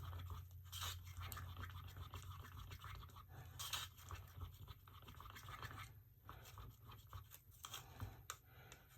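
Quiet mixing of red mica powder into epoxy resin in a cup: soft, scattered scrapes and taps over a low hum that fades during the first few seconds.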